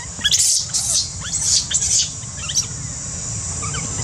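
Baby macaque squealing: a quick run of short, high-pitched cries in the first two seconds or so, fainter and sparser after, the protest of an infant being weaned by its mother.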